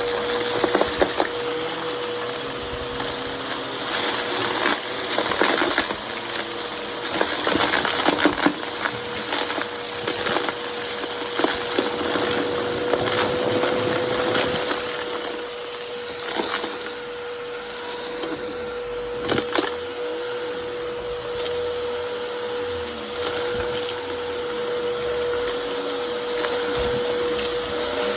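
Vacuum cleaner running with a steady motor whine and hiss while sucking up crunchy debris, which rattles and crackles through the nozzle; the crackling is dense for the first half and thins out after about sixteen seconds as the mess is cleared.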